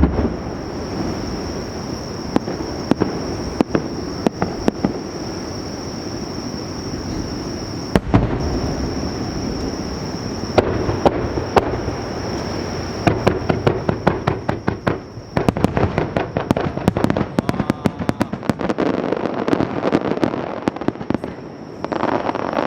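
Fireworks shells bursting on the sea surface (kaijō jibaku): scattered booms and sharp cracks at first, then from about halfway a dense, rapid run of crackling bangs that eases off near the end.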